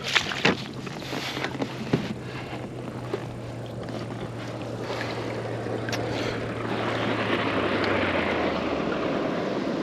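Wind on the microphone over water, with a few sharp knocks in the first two seconds and a steady low motor hum that stops about eight and a half seconds in.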